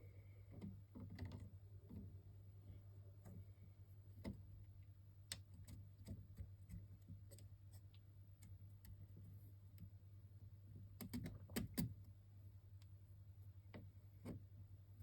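Faint scattered clicks and light taps of small parts and tools being handled, with a louder cluster of knocks about eleven seconds in, over a steady low hum.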